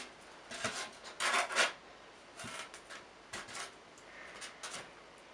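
Polystyrene foam blocks rubbing and scraping against each other as they are handled and set in place, in several short scratchy bursts, the loudest about a second in.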